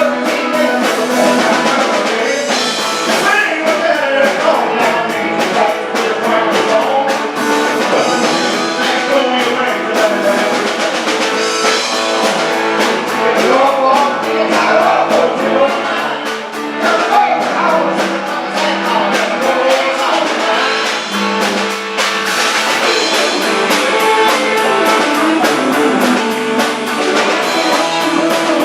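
Live rock and roll band playing an up-tempo number: electric guitar and drum kit with a steady beat, and singing.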